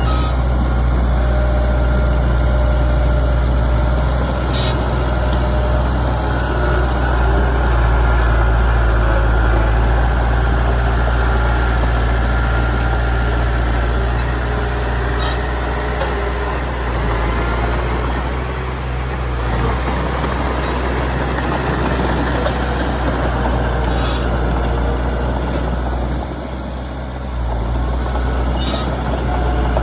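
Komatsu D31PX bulldozer's diesel engine running steadily with a deep drone, dipping briefly twice, with a few sharp clicks scattered through.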